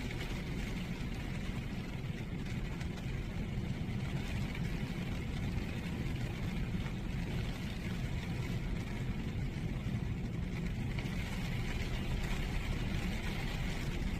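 Rain falling on a beach with sea waves washing ashore: a steady, unbroken rushing noise with a low rumble underneath.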